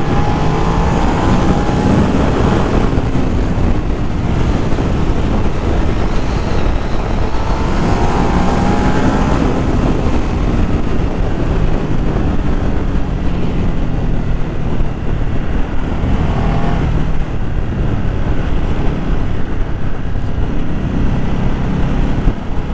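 Ducati Multistrada 1200 S's V-twin engine running on the road, its note rising several times as it accelerates, with wind rushing over the microphone. The seized exhaust valve has been removed, so the engine breathes freely.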